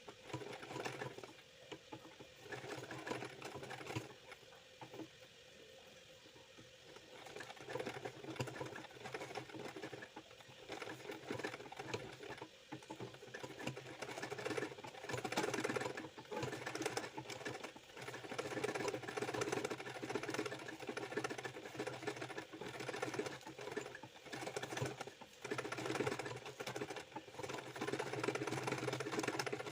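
Ordinary domestic sewing machine stitching cutwork embroidery in runs that start and stop, with a quieter pause a few seconds in.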